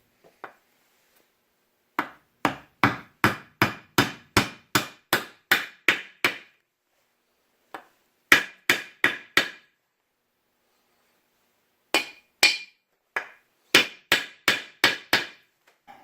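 Hammer tapping on a wooden block to drive an oil seal into the Sears Custom 6 garden tractor's transaxle case. There are three runs of sharp, ringing taps at about two to three a second, with short pauses between them.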